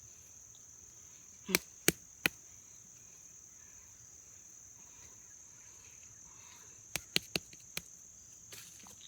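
Crickets or other insects chirring in a steady high-pitched chorus, broken by sharp knocks: three about a second and a half in, then a quicker run of four or five near the end.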